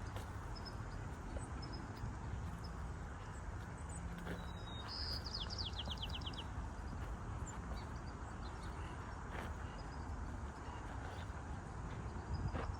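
Outdoor ambience: a steady low rumble with scattered small bird chirps, and about halfway through a songbird's short rapid trill of about eight high notes.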